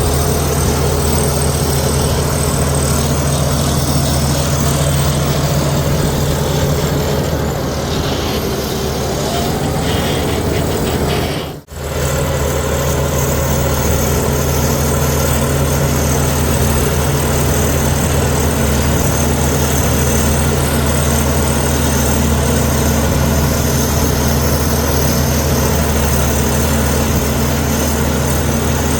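Komatsu D61EX crawler bulldozer's diesel engine running steadily. The sound cuts out for a moment a little before halfway.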